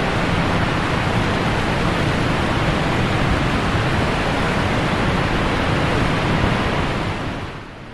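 Steady rush of falling water from a waterfall, fading out near the end.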